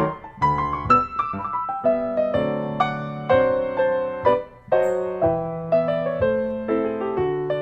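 Background piano music: a gentle melody of struck notes over chords, at an even pace.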